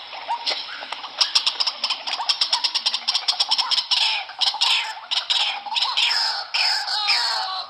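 White-breasted waterhen calling: a rapid run of sharp clicking notes gives way, about four seconds in, to harsh repeated descending calls about twice a second.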